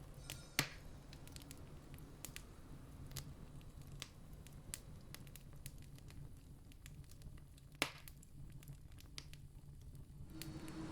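Wood campfire crackling softly: scattered small pops with two sharper snaps, over a low rumble. A steady low hum comes in near the end.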